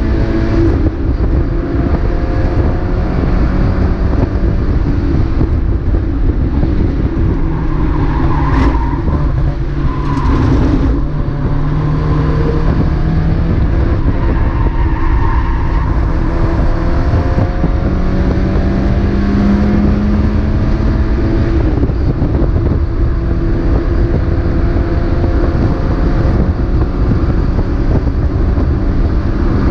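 Mazda MX-5 race car's four-cylinder engine heard onboard, running hard with its pitch rising and falling again and again through gear changes and corners, over loud road and wind noise.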